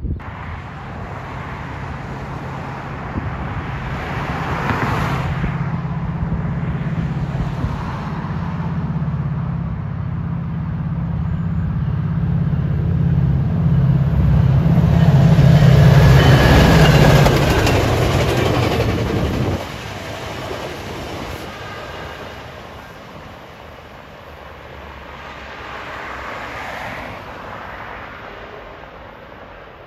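Metrolink commuter train's diesel locomotive approaching and passing, its engine drone building steadily, then dropping off suddenly about two-thirds of the way through as it goes by. The rolling rumble of the bilevel coaches then fades as the train moves away.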